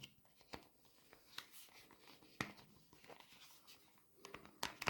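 Faint, scattered clicks and light rustles of hands handling an electric kettle's plastic power base, with a few sharper clicks near the end.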